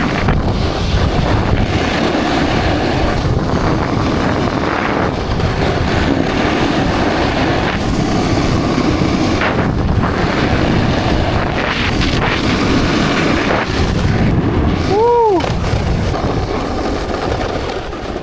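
Wind buffeting the camera microphone, a loud, steady rumble with no pauses. About fifteen seconds in, a short tone rises and falls once.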